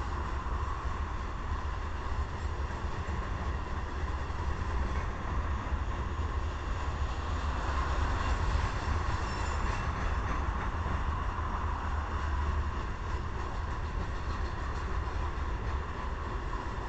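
Covered hopper cars of a CSX freight train rolling past on the rails: a steady rumble of wheels on track. Faint high squeal lines appear near the middle.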